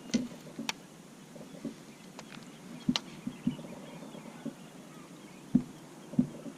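Irregular knocks and thumps with a few sharp clicks over a faint steady background, the sounds of gear being handled in a fishing kayak. The loudest two thumps come near the end.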